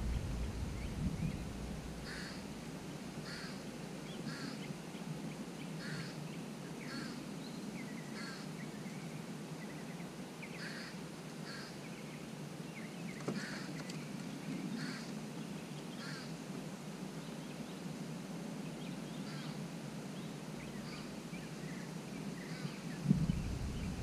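A bird calling repeatedly in short calls, about one a second in irregular runs, with a low rumble coming in near the end.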